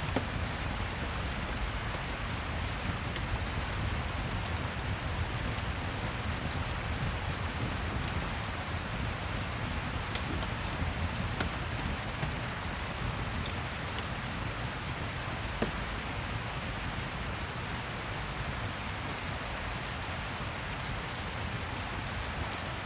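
Steady rain with a low rumble, and a few faint crackles from a fireplace.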